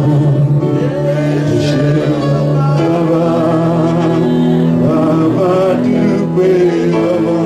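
Church praise music: long held chords under a voice singing a slow chorus.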